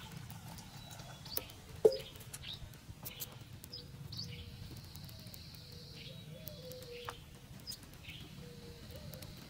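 Forest birds chirping in short, scattered calls, with one sharp knock about two seconds in.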